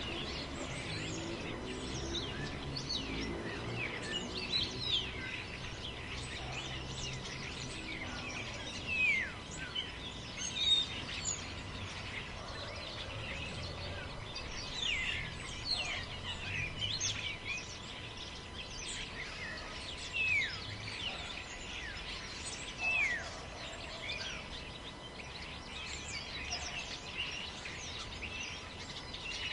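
Forest ambience: many birds calling with short chirps that drop quickly in pitch, over a steady hiss of wind in the trees.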